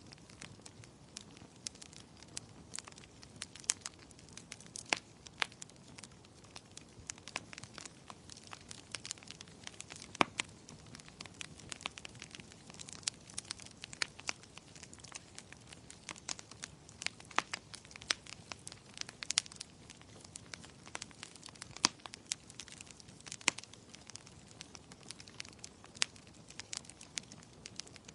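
Wood fire in a fireplace crackling: irregular sharp pops and snaps, some louder than others, over a faint low hiss of burning.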